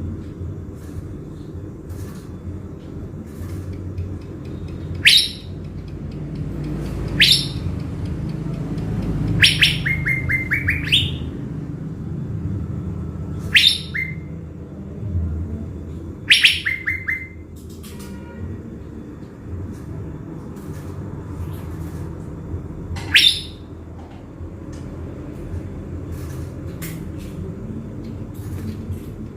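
Caged thanh lam bird, kept as a trapping decoy, calling in sharp, short notes that sweep downward, one every few seconds, two of them breaking into a quick run of clipped notes. A steady low rumble runs underneath.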